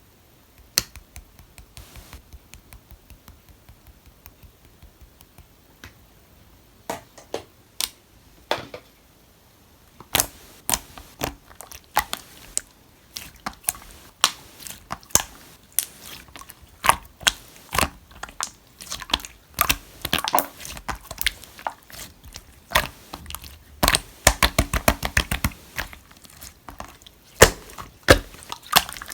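Clear green marbled slime being squeezed and pressed by hand, making sharp popping and clicking sounds. The pops are sparse and soft at first, come thicker and louder from about ten seconds in, and run together quickly around twenty-four seconds in.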